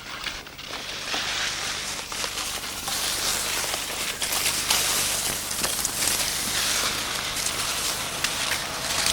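Dense crackling and crunching of snow, with many small clicks, starting suddenly and running on steadily.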